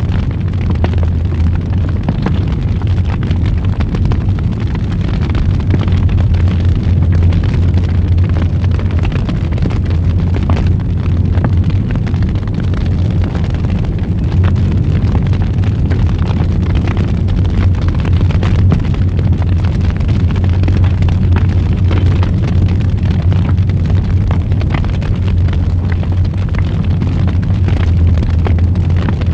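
Wood fire burning in a fireplace: a steady low rush of flames with frequent crackles and pops throughout.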